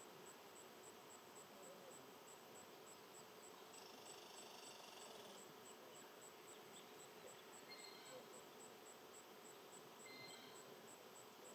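Faint outdoor ambience with an insect, typical of a cricket, chirping steadily at about three to four high chirps a second. A short buzz comes in about four seconds in, and a few faint short higher notes sound later on.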